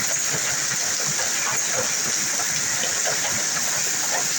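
Heavy storm rain pouring down in a steady, dense hiss.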